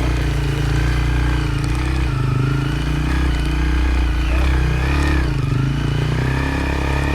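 Motorcycle engine running under way, its pitch rising and falling a few times with the throttle.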